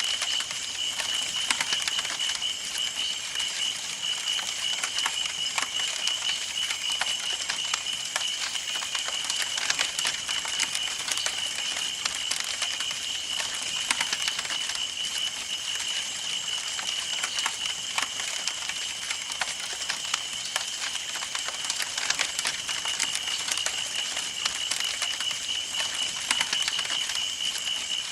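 Campfire burning: wood crackling and popping in quick, irregular snaps over a soft hiss, with a steady high-pitched tone underneath.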